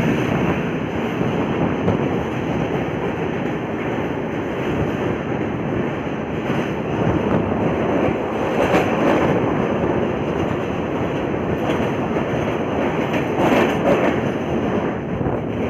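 Passenger train running at speed through a tunnel, heard from an open coach door: a loud, steady rumble of wheels on rails, closed in by the tunnel walls, with a few sharper clacks.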